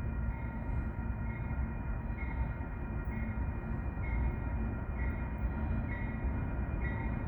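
CSX freight train rolling slowly past, its cars giving a steady low rumble on the rails. Over it sits a set of steady high tones that swell about once a second.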